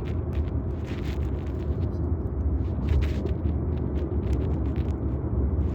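Small helicopter in flight, heard from inside the cabin: a steady low drone from the engine and rotor.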